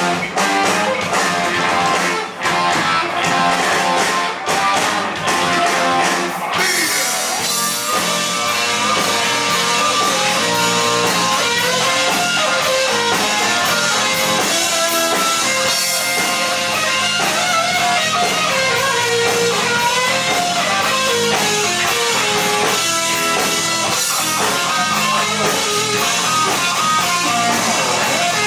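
Heavy metal band playing live: loud electric guitars and drum kit. A few short choppy breaks in the first six seconds, then continuous playing.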